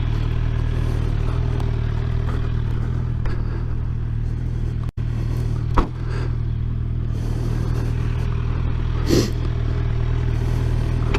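Motorcycle engine running at steady speed with road and wind noise, with a brief dropout about five seconds in.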